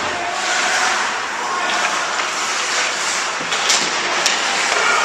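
Steady noise of an indoor game in a large echoing hall, with two sharp knocks in the second half.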